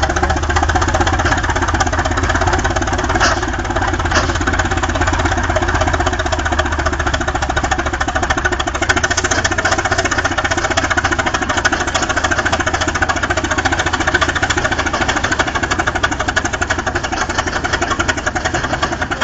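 Holt crawler tractor's engine running steadily with a rapid, even firing beat. Two light clicks come about 3 and 4 seconds in.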